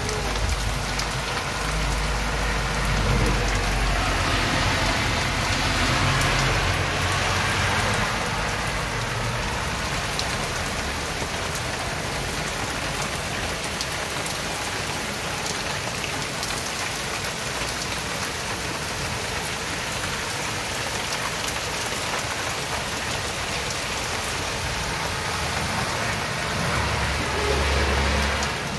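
Heavy rain pouring onto a street, a steady dense hiss of rain on road, roofs and parked cars, with a low rumble in the first several seconds. Near the end a car drives past through the water on the road with a tyre swish.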